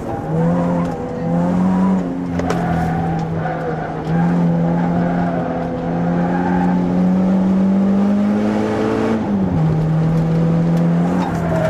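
Renault Clio RS2's 2.0-litre four-cylinder engine under load, heard from inside the cabin on track. Its note climbs steadily in pitch for several seconds, drops sharply about nine seconds in, then runs steady.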